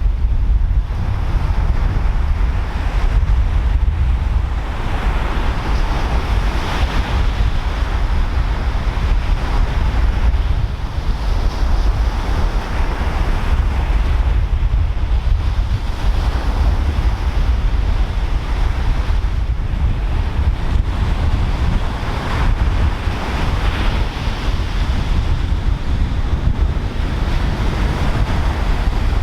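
Pacific Ocean surf breaking on the shore in repeated, irregular surges, with strong wind rumbling on the microphone throughout.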